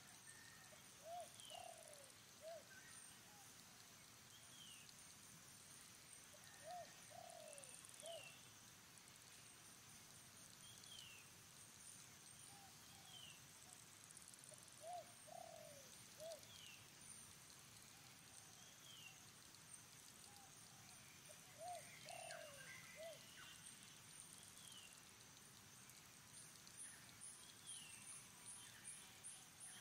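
Faint bird calls: a low, three-note cooing phrase repeated four times, with short, high, falling chirps from another bird every second or two. A fast, high pulsing sets in near the end.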